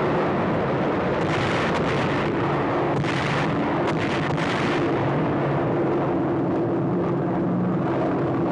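Piston engines of low-flying bombers droning steadily, with three rushing blasts of explosion noise in the first five seconds as the bombs go off.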